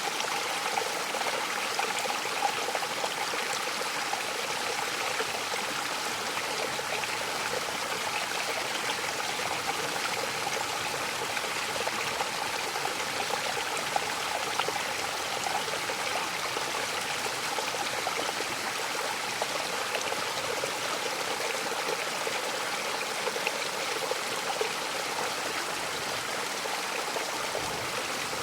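Mountain waterfall: a steady, unbroken rush of falling water, a constant hiss with little deep rumble.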